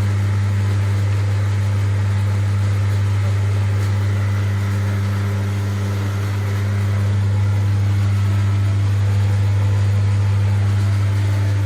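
A steady, low electrical hum from running workshop machinery, holding one pitch without change.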